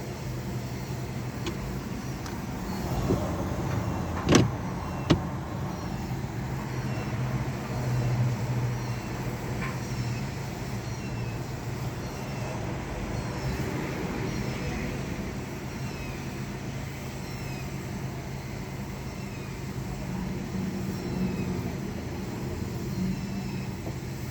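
Car wash tunnel machinery running with a steady low hum, with two sharp clicks about four and five seconds in.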